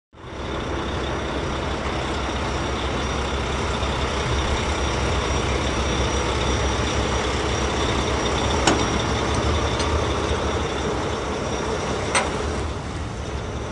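Steady running noise of a vehicle, with a few sharp clicks later on.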